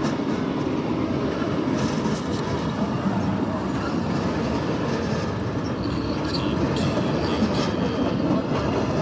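Train hauled by the Big Boy steam locomotive rolling past close by on the track: a steady rumble of wheels on rail, with scattered clacks over the rail joints.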